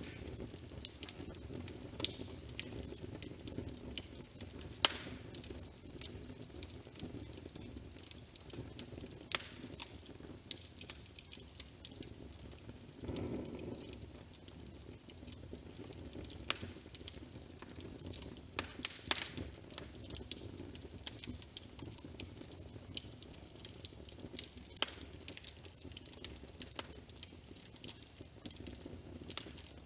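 Fireplace fire crackling: a steady low rush with irregular sharp pops and crackles.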